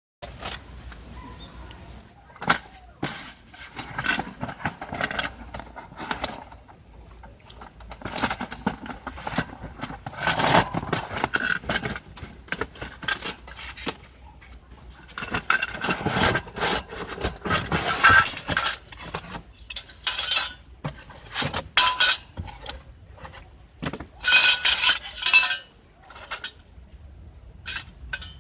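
Metal camping gear being handled and set out, with irregular clinks, clatters and knocks of metal parts and utensils.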